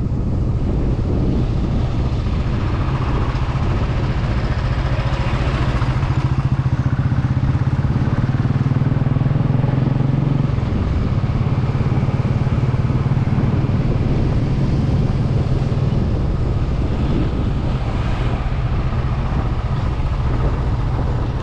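Motorcycle engine running steadily while riding, with a constant low engine note under road noise.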